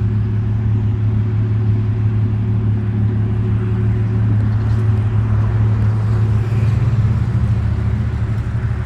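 Audi S5's supercharged V6 idling steadily through an aftermarket AWE exhaust, a deep even hum.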